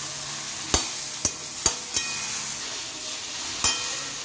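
Gongura (sorrel) leaves frying in sesame oil in a kadai, a steady sizzle, with a steel spatula knocking and scraping against the pan in about five sharp clicks as the leaves are stirred.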